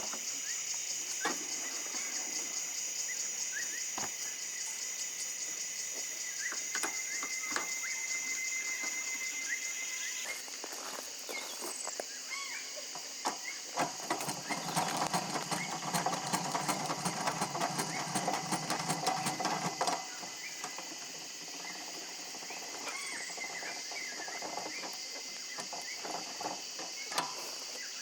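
Steady trilling of insects, with scattered short bird chirps and clicks. About halfway through, a denser stretch of rustling and clicking sounds for about six seconds, then stops suddenly.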